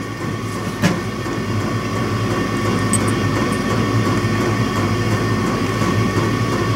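An electric soldering gun buzzing steadily while held on the trigger to heat a solder joint on a fuel pump cable end. A sharp click about a second in, after which the buzz grows a little stronger.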